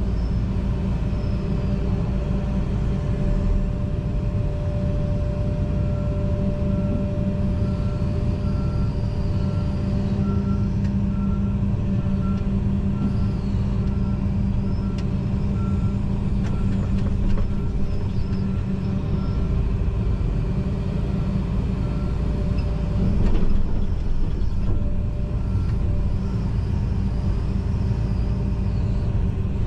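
John Deere 245G excavator's diesel engine running steadily, heard from inside the cab. A backup alarm beeps in a regular train through the middle of the stretch, and a louder knock sounds about three-quarters of the way through.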